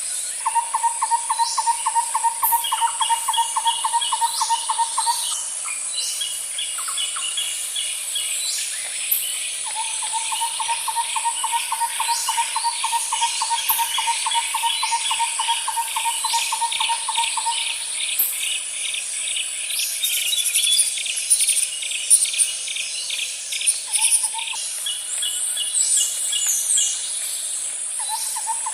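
Nature ambience of insects and birds: a steady high-pitched insect drone underneath, long rapid trills that stop and start every few seconds, and bursts of chirping birdsong that grow busier for a few seconds past the middle.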